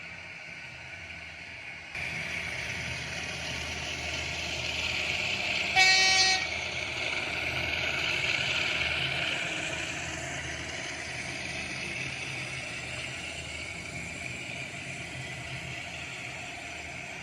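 Sound decoder of an H0 model DB class 221 diesel-hydraulic locomotive: engine running sound, with one short horn blast about six seconds in as the loudest moment. The running sound grows louder shortly afterwards, then eases off.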